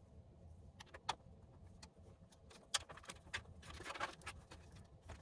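Quiet, scattered light clicks and taps, with a short rustle about four seconds in, as cables and connectors are handled and plugged in inside a desktop PC case.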